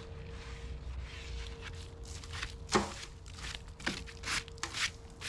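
Handling noises: a sharp knock about three seconds in, then several shorter knocks and rustles, over a faint steady hum.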